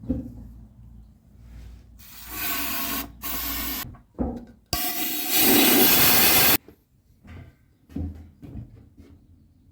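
Three bursts of hissing from gas or air escaping under pressure, lasting about one, one and two seconds, the last the loudest. Small knocks and rubbing sounds come before and after them.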